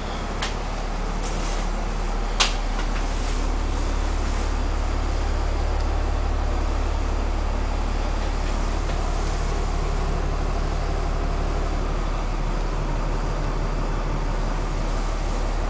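Cummins 5.9-litre turbo diesel of a 1999 Blue Bird TC2000 bus idling with a steady low drone. Two short clicks come early on, the sharper one about two and a half seconds in.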